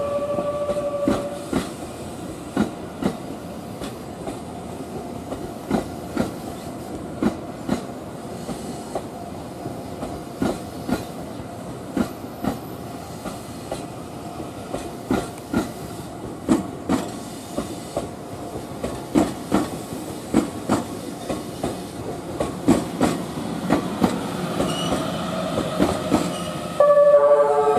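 The E001 'TRAIN SUITE Shiki-shima' rolls slowly past, its wheels clacking over rail joints and points in an irregular run of sharp clicks, about one or two a second, over a low running rumble. A horn sounds briefly at the very start and again, louder, about a second before the end.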